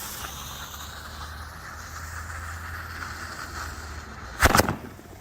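Fuses of two PRO OX 5-shot roman candles hissing for about four seconds, then a loud, sudden burst of close pops about four and a half seconds in as the first shots fire.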